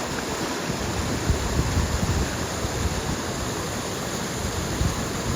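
River water rushing steadily, with wind buffeting the microphone in low gusts.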